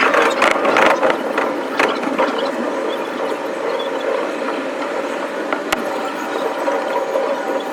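Running noise of a JR East Shonan-Shinjuku Line train, played at five times speed, so the wheel and rail noise becomes a fast ratchet-like clatter. There is a cluster of sharp clicks in the first two seconds and one sharp click about three-quarters of the way through.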